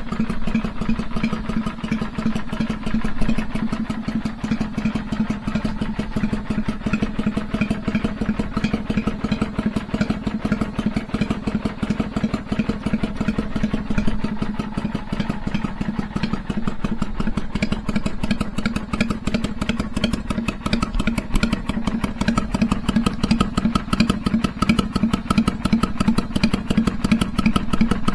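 Kawasaki Vulcan 400's V-twin engine idling steadily, with the loping 'three-beat' (sanbyoshi) idle rhythm; the pulses grow a little sharper past the middle.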